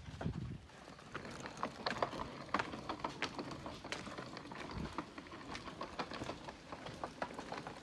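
Irregular crackling and pattering: many small, sharp clicks and taps, several a second, over a faint hiss.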